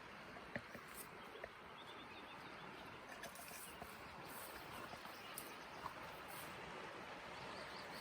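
Steady rush of a swift mountain river, with faint bird chirps and a few small clicks.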